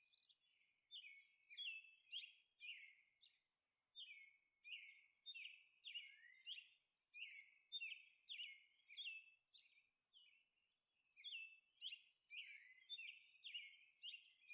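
Faint bird chirping: short high chirps that glide down, repeating about twice a second, with a brief break about two-thirds of the way through.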